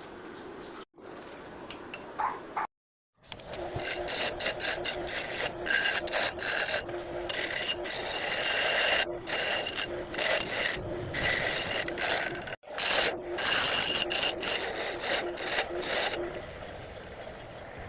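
Homemade hand-crank rotary drilling machine at work: a dense run of metallic clicking and rattling with a ringing edge, several clicks a second, starting about three seconds in and stopping a second or two before the end.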